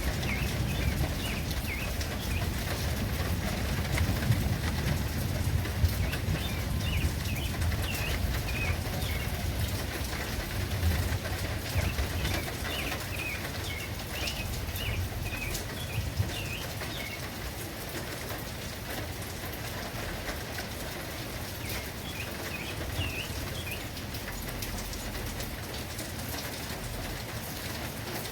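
Steady rain falling, with drops ticking close by and a few louder drips. A bird chirps in short bursts now and then.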